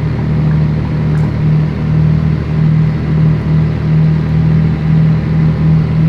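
Scania 113 truck's 11-litre six-cylinder diesel running at steady speed. It makes a low drone that throbs about twice a second.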